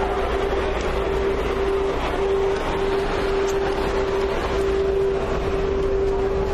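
A boat's engine running steadily: a constant hum, broken briefly a few times, over an even wash of noise.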